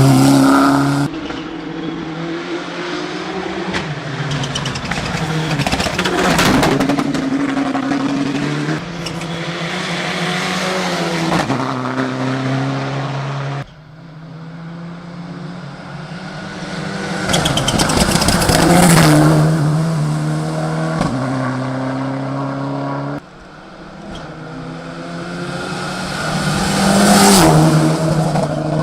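Mitsubishi Lancer Evolution VI rally car's turbocharged 4G63 inline-four at full throttle, revs climbing and dropping in steps as it shifts through the gears. Loud throughout, it cuts off suddenly twice and builds again, loudest as the car comes past near the middle and near the end.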